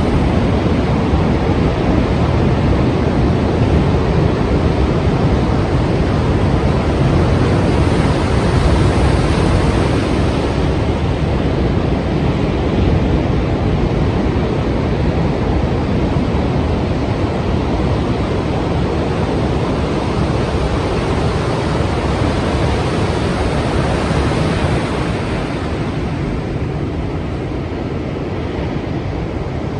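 Strong sea waves and surf making a continuous, even rush, with the hiss in the upper range easing a little near the end.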